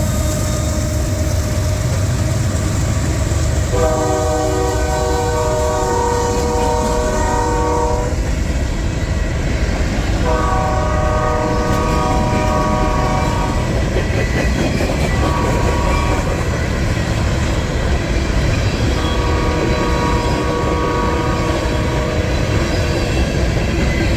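Freight train rumbling past, its locomotive horn sounding a chord of several notes in the grade-crossing pattern: long, long, short, long.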